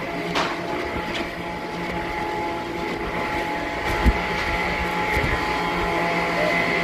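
Sawmill machinery running steadily: a constant motor hum with several steady tones, with a few knocks, the clearest about four seconds in.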